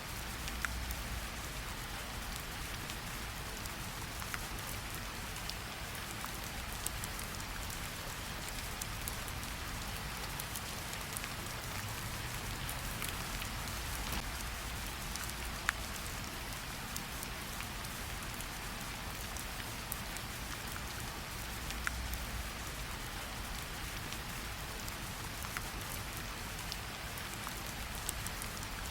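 Steady gentle rain falling on tree leaves, a constant hiss with scattered individual drops ticking and dripping, a few of them sharper.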